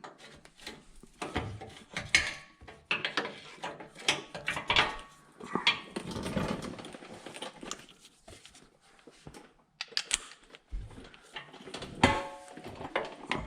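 Irregular clanks, knocks and scraping of hand tools on metal, with a few short ringing clinks, as the bolts of a HMMWV motor mount are worked loose.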